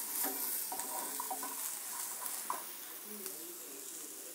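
Chopped onion, garlic and green chillies sizzling in hot oil in a frying pan, stirred with a wooden spatula that scrapes and taps the pan for the first couple of seconds.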